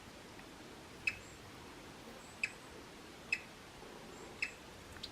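Woodpecker making four sharp single clicks, spaced unevenly about a second apart.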